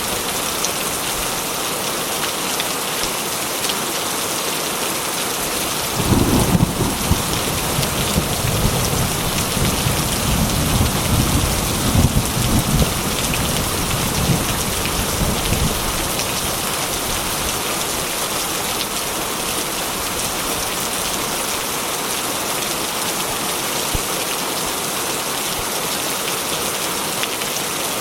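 Heavy rain drumming steadily on a corrugated metal roof. About six seconds in, a deep roll of thunder breaks in suddenly and rumbles for roughly ten seconds before dying away under the rain.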